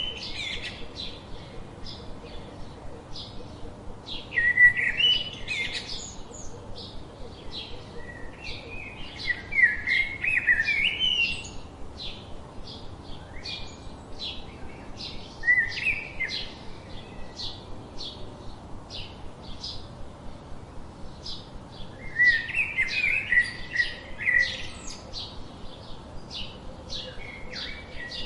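Songbirds singing: a steady run of short high chirps, about two a second, with louder warbled phrases breaking in every five or six seconds.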